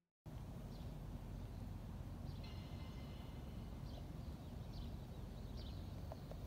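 Outdoor ambience: a steady low rumble, with a bird giving short high chirps about once a second and a brief trill in the middle.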